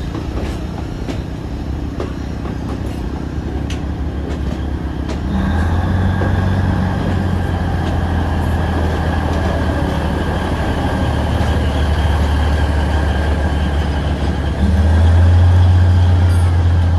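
Alishan Forest Railway train with its diesel locomotive. In the first few seconds wheels click over the rail joints. About five seconds in, the diesel's low steady drone comes in with a thin steady whine above it, and it grows louder again near the end.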